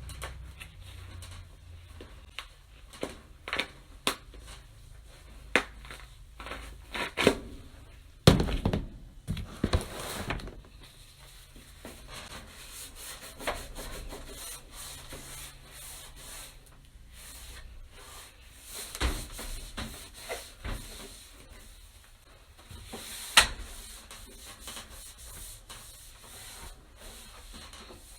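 Hand wiping and scrubbing a washing machine with cleaning wipes: rubbing with scattered clicks and knocks against the machine. The loudest knocks come about 8 seconds in and again about 23 seconds in.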